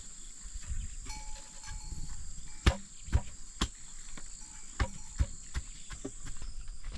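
Irregular knocks and taps, a few much louder than the rest, over a steady high-pitched insect drone.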